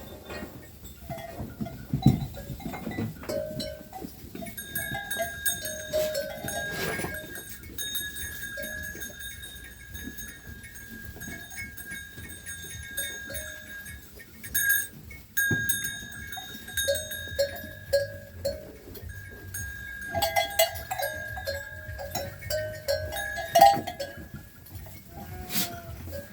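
Flock of sheep and goats bleating in short repeated calls, over the steady ringing of animal bells.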